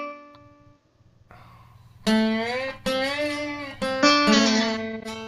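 Slide guitar playing a short phrase: a note fading out at the start, then from about two seconds in four or five notes, each gliding up or down in pitch into the next.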